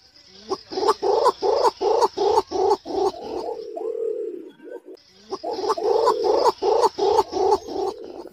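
Green imperial pigeon calling: two bouts of quickly repeated cooing notes, about three a second. The first bout ends in a drawn-out note, and the second starts about five seconds in.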